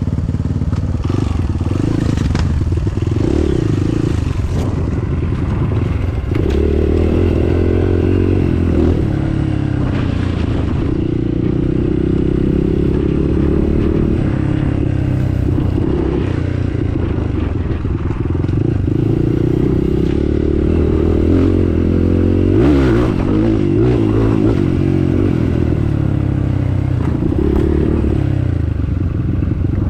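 Motorcycle engine running under way, its revs rising and falling again and again, with a few knocks and rattles.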